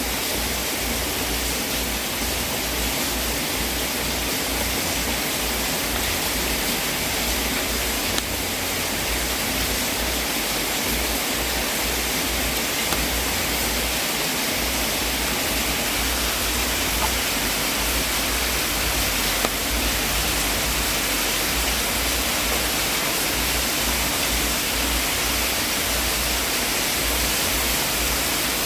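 Wood fire burning in a fireplace: a steady hiss with a few faint, scattered pops.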